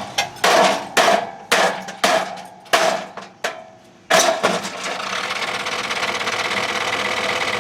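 A mini sledge hammer strikes the metal of an old dehumidifier about eight times, roughly twice a second. About four seconds in, the battered dehumidifier, plugged back into the mains, starts up with a sudden, steady mechanical running noise.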